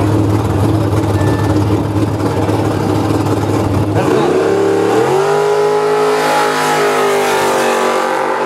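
Drag-racing car's large engine idling loudly and steadily on the start line; about four seconds in the sound changes abruptly and the engine revs up in a rising sweep over about a second, then holds at high revs as the car launches down the strip.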